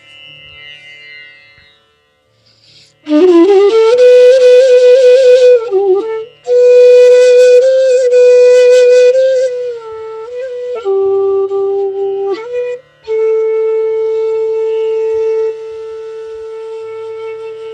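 Bansuri (North Indian bamboo flute) playing a slow raga phrase over a faint drone. The flute enters about three seconds in with a rising slide into long held notes, with bends and slides between them. It pauses briefly twice and ends on a long steady note.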